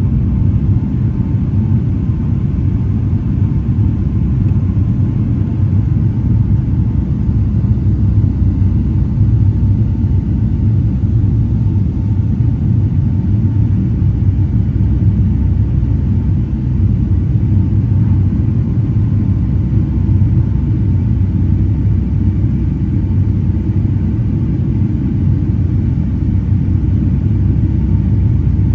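Steady low rumble of a Boeing 757-200's engines and airflow heard inside the passenger cabin, with a faint steady hum above it.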